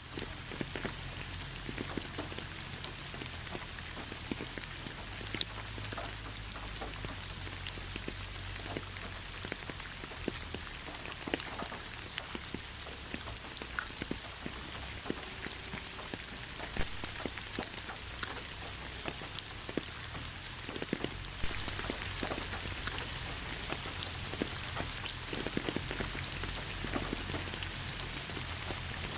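Steady rain falling, an even hiss with many separate drops tapping sharply and irregularly close by.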